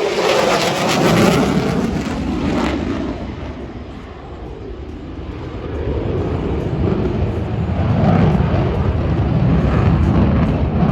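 Jet noise from an F-35A Lightning II's single afterburning turbofan engine as it flies a tight demonstration turn. It is loud at first, fades about four seconds in, then builds again as the jet comes back around.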